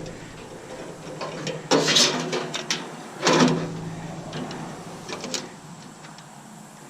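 Metal parts of a stainless steel coffee maker being handled and worked on during dismantling: scattered clicks and clinks, with two louder scraping rasps about two and three seconds in.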